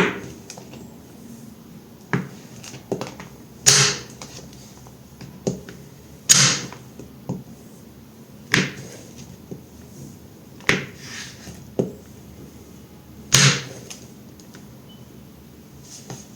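Knife cutting through a bar of multicoloured soap: a series of crisp cuts every second or two at uneven intervals, several drawn out to about half a second, with smaller clicks between them.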